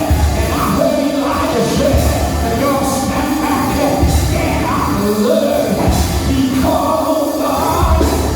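Church music with a singing voice over a band, with heavy low drum or bass hits every couple of seconds.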